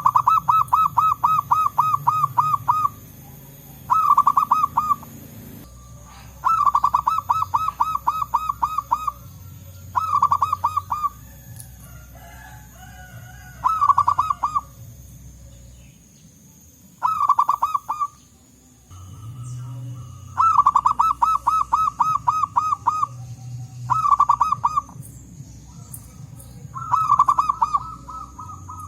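Zebra doves cooing in bouts of rapid staccato notes, about five a second. About nine bouts come in turn, each one to three seconds long.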